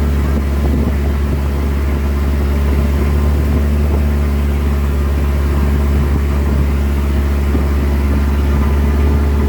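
Boat engine running steadily with a deep, even hum.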